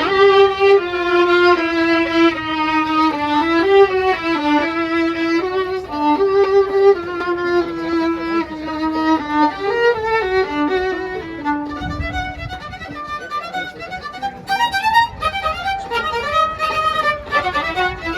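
Music with a violin playing a melody.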